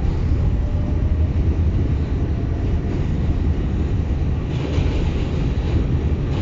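New York City Subway N train running along the West End line, heard from on board: a steady low rumble of the cars on the track, with a brief rise in hiss about four and a half seconds in.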